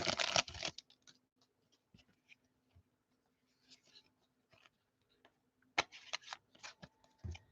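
Trading-card pack wrapper crinkling and tearing briefly at the start. Near the end comes a quick cluster of sharp rustles and flicks as cards are handled.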